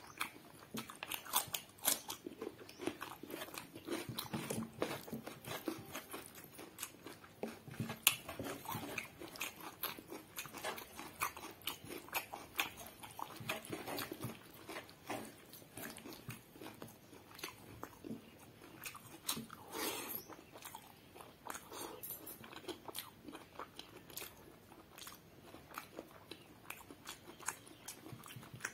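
A person eating by hand: chewing and crunching, including bites of raw cucumber slices between mouthfuls of rice and curry. Irregular crunches and clicks throughout.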